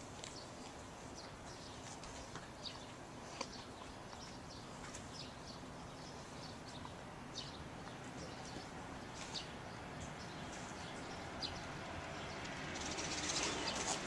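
Small birds chirping now and then in a tree: short, high chirps scattered every second or so over faint outdoor background noise. Near the end, the noise of an approaching vehicle rises.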